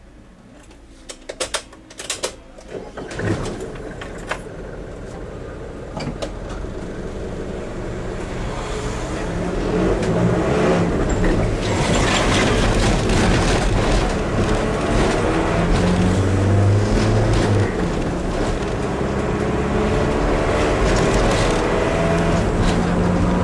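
Diesel train engines working hard as the train pulls away from the station, growing steadily louder for the first ten seconds and then staying loud, with the engine note shifting and rising near the end. A few sharp clicks come just before it builds.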